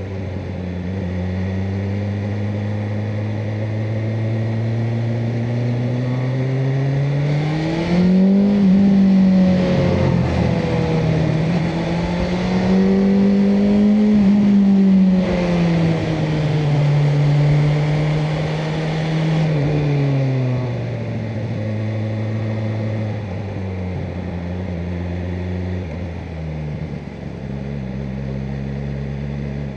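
BMW M1000R Competition's inline-four engine under way: the revs climb about eight seconds in, dip and climb again, then ease off around twenty seconds and settle to a steady, lower cruise.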